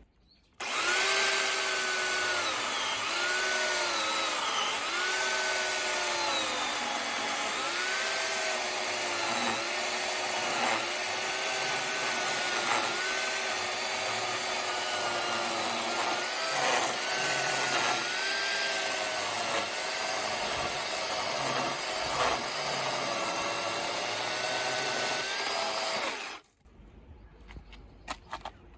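Power saw cutting oak firewood logs: its motor starts abruptly, and its pitch dips and recovers every second or two as the blade bites into the wood and eases off. It cuts off about 26 seconds in.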